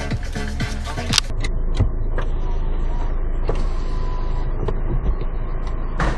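Background music with a beat for about the first second, then cut off by the car's own sound: a steady low engine and cabin rumble with a few light clicks.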